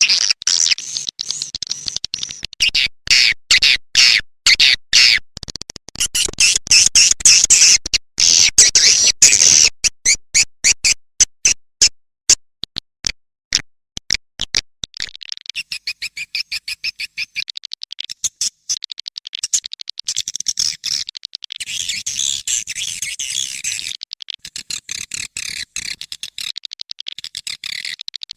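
Edible-nest swiftlet call recording, a lure ('panggil') sound played to draw swiftlets into a nesting house. Rapid high chirps come in pulsed trains with short gaps, then about halfway through turn into a dense, continuous twittering chatter.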